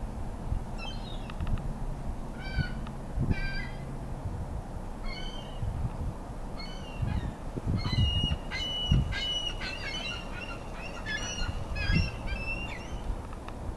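Ring-billed gull giving repeated short calls in quick runs, coming thicker in the second half, during a squabble over food. A low rumble with occasional thumps runs underneath.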